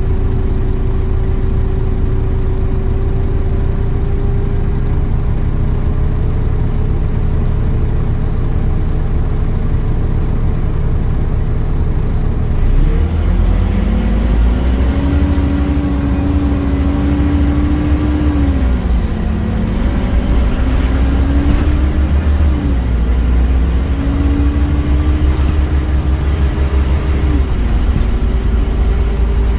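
Scania Omnicity bus engine idling steadily, then about 13 seconds in pulling away. Its note rises, dips twice as it goes through the gears, and settles back to idle near the end.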